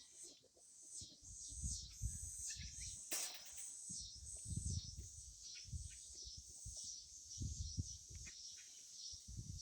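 A sheep chewing pumpkin: irregular low crunching and munching. Over it runs a steady high chirping of birds and insects, with one short sharp sound about three seconds in.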